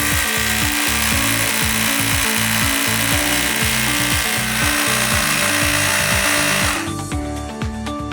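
HuKan HK-2603 1050 W rotary hammer drill running steadily, then cutting off about seven seconds in, over background music with a steady beat.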